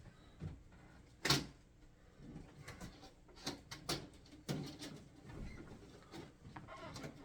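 Handling noise as parts of a portable air conditioner are fitted: a series of short clicks and knocks, the sharpest about a second in, then a scattered run of lighter ones.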